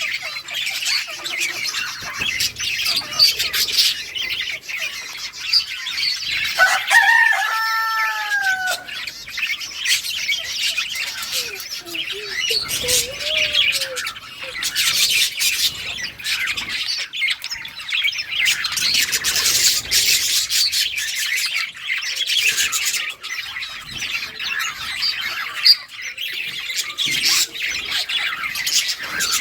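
A flock of budgerigars chirping and chattering continuously. About seven seconds in, a louder drawn-out call from another bird rises and falls.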